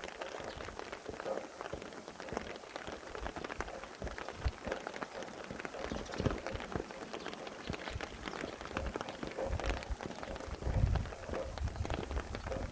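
Steady rain, with many individual drops striking close by. A brief low rumble about ten and a half seconds in, typical of a gust of wind.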